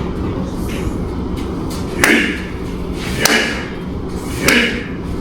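A sumo wrestler's teppo drill: open palms thrust hard against a wooden post, three sharp slaps about a second apart, each echoing briefly in the hall.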